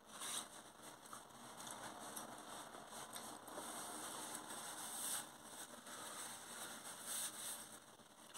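Faint wet chewing and mouth sounds of a person eating sausage and mash, with a few brief crackly smacks.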